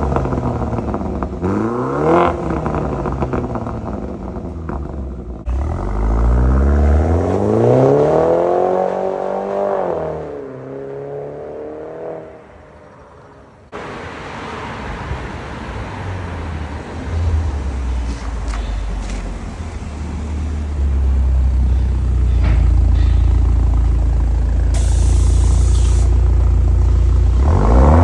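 BMW G22 420i's turbocharged four-cylinder petrol engine revving through a valved performance exhaust with the valves open: a few short blips, then a longer rev that climbs and falls about six to ten seconds in. After a brief quieter stretch it settles into a steady deep rumble that grows louder near the end.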